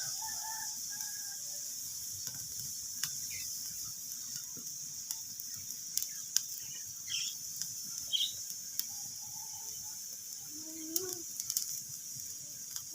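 Wood fire crackling: irregular sharp pops and snaps over a steady high hiss, with a few short, faint chirp-like tones here and there.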